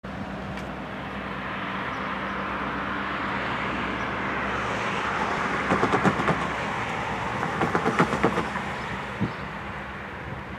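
Steady rumble of an approaching diesel freight train, led by an EMD SD70ACE locomotive, slowly growing louder. A car's tyres knock over the grade-crossing rails in two quick clusters about two seconds apart, midway through.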